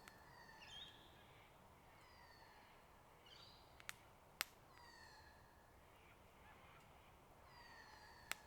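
Faint bird calls in the forest: short groups of falling whistled notes repeated every couple of seconds, with a few sharp ticks, one about halfway and one near the end.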